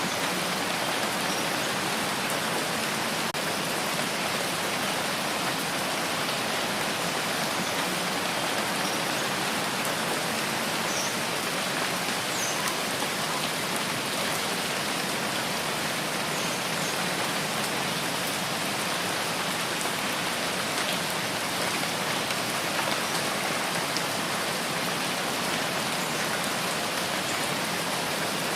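Steady rain falling and pattering on a surface, an even hiss with a few faint drop ticks.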